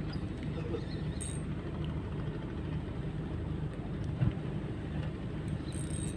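Boat engine running steadily with a low, even hum, with one short knock about four seconds in.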